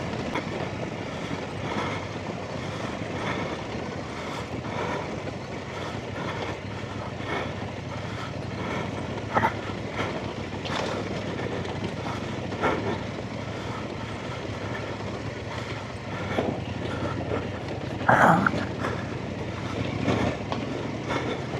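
Off-road motorcycle engine running steadily at low revs as it picks its way along a rough, washed-out lane, with knocks and rattles from the bike over the ground and a brief burst of throttle about 18 seconds in.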